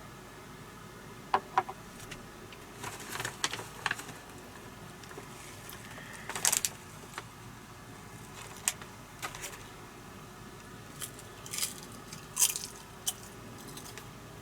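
Scattered small clicks, crinkles and rustles of things being handled at close range, at irregular intervals over a steady low hiss.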